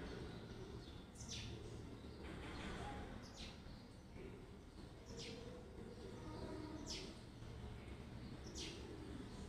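A bird calling faintly: a short, falling chirp repeated five times, about every two seconds, over a low, steady background noise.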